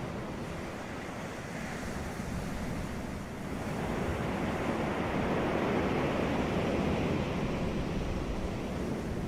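Ocean waves breaking on a beach, a steady wash of surf that eases off about three seconds in and swells again with the next wave.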